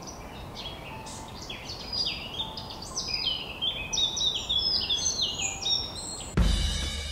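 Birds chirping: many quick, downward-sliding chirps overlapping, thickest in the middle. Near the end, music with a heavy drum hit starts abruptly.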